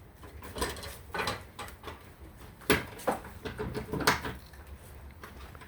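A handful of sharp knocks and clatters, about five spread over four seconds, from the wooden pigeon coop's parts being handled.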